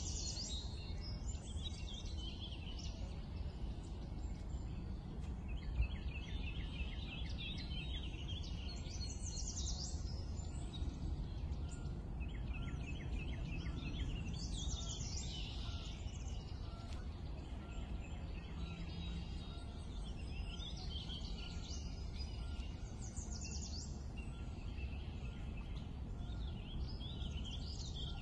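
Birds singing in short chirping and trilling phrases that repeat every couple of seconds, over a steady low background hum.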